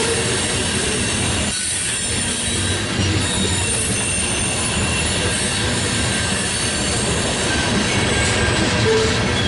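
Loaded freight train of hopper cars rolling past close by: a steady rumble and clatter of steel wheels on rail, with faint high wheel squeal running through it.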